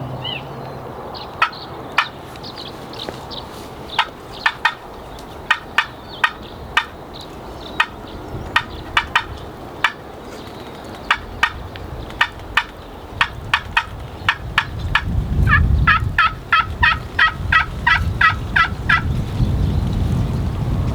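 Wild turkey calling: scattered short, sharp notes, then near the end a run of about a dozen evenly spaced yelps. A low rumble of wind noise builds over the last few seconds.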